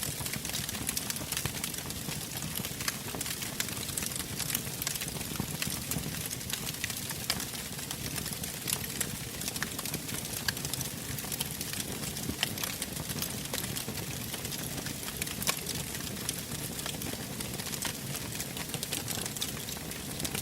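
Wood fire burning in a fireplace: a steady soft hiss with frequent sharp crackles and pops.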